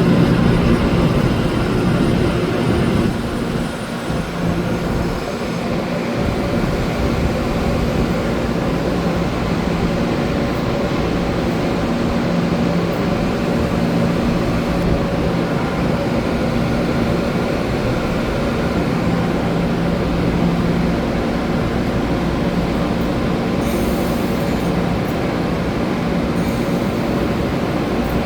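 Taiwan Railway TEMU2000 Puyuma tilting electric multiple unit, a steady hum with a few held, unchanging tones. The level dips slightly about three to four seconds in, and there are a few short hisses near the end.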